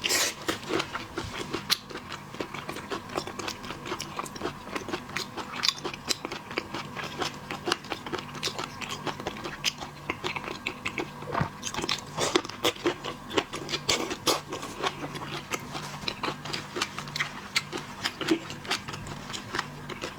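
Close-miked chewing and biting of seafood: wet smacking and crunching with many sharp, irregular crackles.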